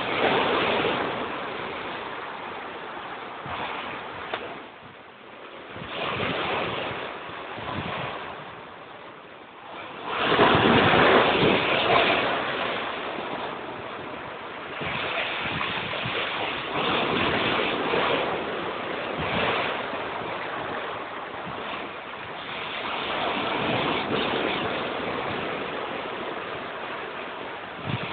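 Big storm waves breaking and washing against a seawall. The surf comes in surges that swell and fade, the loudest about ten seconds in.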